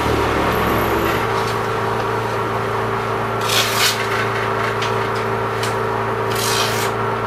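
A powered knife sharpener's motor running steadily, with two short grinding strokes of a blade against it, about three and a half and six and a half seconds in, as serrated knives are sharpened.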